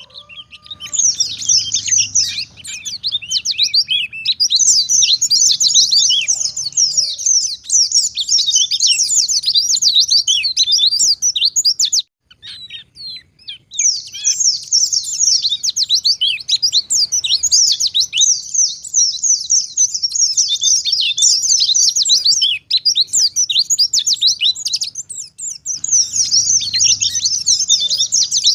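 White-eye (pleci) singing a long, fast run of high twittering chirps, breaking off briefly about twelve seconds in and then starting again.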